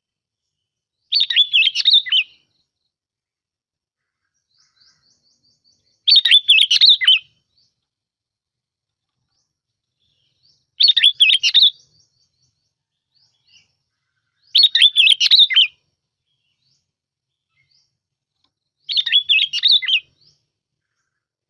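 Sooty-headed bulbul (chim bông lau) singing: five short phrases of quick, run-together notes, each about a second long, repeated every four to five seconds.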